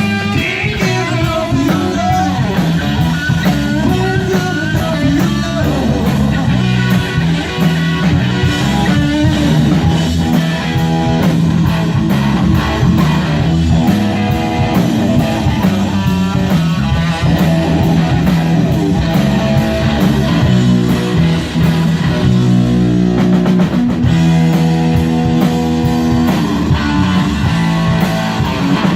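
1960 Gibson Les Paul Standard electric guitar played through an amplifier with bass guitar and drums behind it in a rock song, the guitar bending notes in the first few seconds, then settling into steadier held notes.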